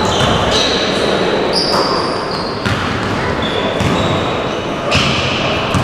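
Basketball game in an echoing gym: the ball bouncing on the court among several short high squeaks, like sneakers on the floor, with a couple of sharp knocks.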